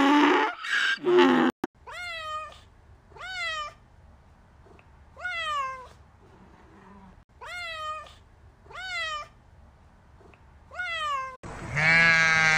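A cat meowing: six short meows, each rising then falling in pitch, spaced one to two seconds apart. A donkey's bray ends in the first second and a half, and a sheep's bleat begins near the end.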